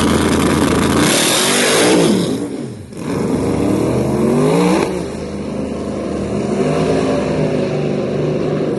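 Drag race car engine at high power. Its pitch drops sharply about two and a half seconds in, then climbs again over the next two seconds.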